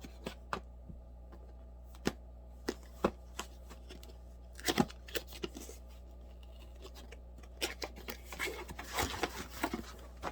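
Hands opening and handling the packaging of a condenser microphone kit: scattered clicks, taps and short rustles, with a cluster about halfway and busier rustling near the end, over a steady low hum.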